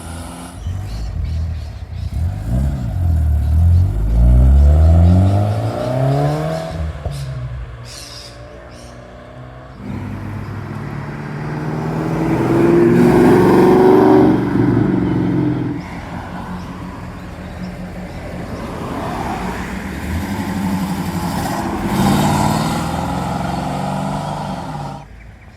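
Cars accelerating hard as they pull away, with their engines revving up in pitch. A second loud pass comes about halfway through, and the sound drops off suddenly near the end.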